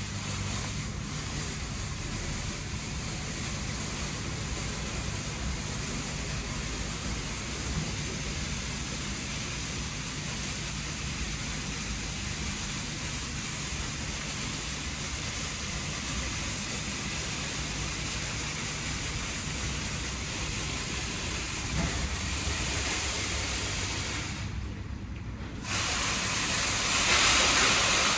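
WashTec SoftCare Pro gantry car wash spraying active foam with a steady hiss. Near the end the spray briefly drops out, then the 16-bar side high-pressure jets come on with a louder, sharper hiss.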